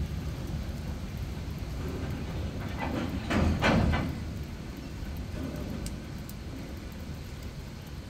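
Freight train wagons rumbling past, with a short burst of louder wheel clatter about three seconds in; the rumble then fades under steady rain.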